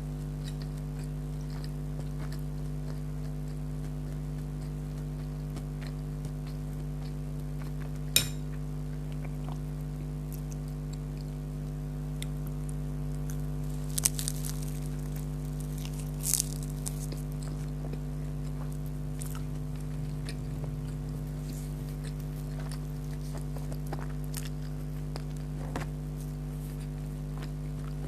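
Close-up chewing and crunching of fried beef kachori, with scattered sharp crunches: one loud about eight seconds in, and more clusters a little past halfway. A steady low electrical hum runs underneath.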